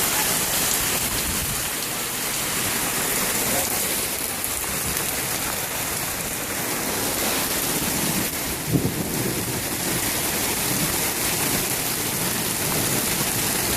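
Heavy rain pouring down hard and steadily, a downpour heavy enough to flood the ground, with a short louder thump about two-thirds of the way through.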